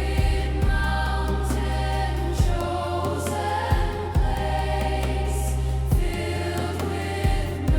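A choir singing a slow hymn in sustained notes over a steady low bass, with deep drum hits every second or two.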